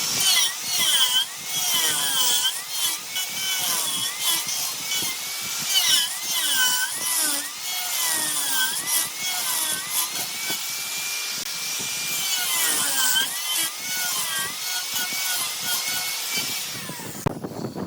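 Turning tool cutting jackfruit wood on a spinning lathe, a steady shearing hiss with a whistling squeal that dips and rises again and again as the tool sweeps across the piece.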